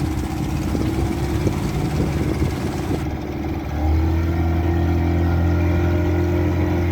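Speedboat engine running steadily. About four seconds in it grows louder, with a stronger low hum.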